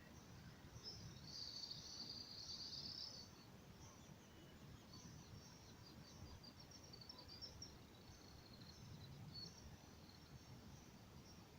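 Faint, high bird chirping and twittering, densest for about two seconds near the start, then scattered chirps over a low background hiss.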